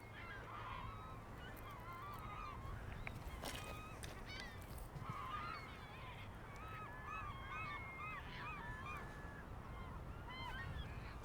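A flock of waterbirds calling: many short, overlapping calls that rise and fall in pitch, faint against a low steady background.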